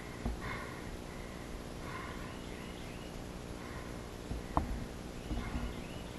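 Short animal calls, repeated every second or two, over a faint outdoor background. A sharp click comes about four and a half seconds in, with a few low thuds.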